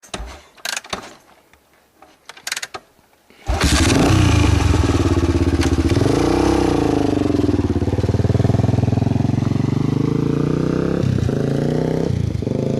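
A few knocks and clicks, then a motorcycle engine comes in suddenly about three and a half seconds in. It runs loud with one brief rev up and back down, then holds steady.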